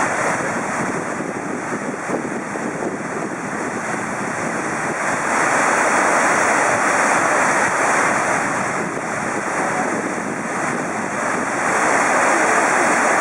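Waterfall: a steady rush of falling water, growing a little louder about five seconds in.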